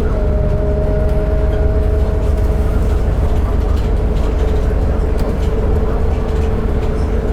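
Volvo B8RLE 8900LE bus under way: its diesel engine and the road make a steady low rumble, with a steady whine above it.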